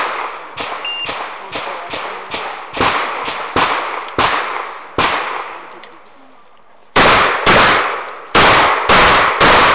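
Shotgun fired in rapid strings: shots about two a second with echo, then a short pause and a louder string of shots at the same pace from a little past halfway.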